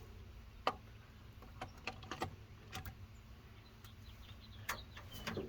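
Faint, scattered metallic clicks and taps of hand tools working the carburetor mounting studs, a handful of single clicks with the sharpest about a second in, over a low steady hum.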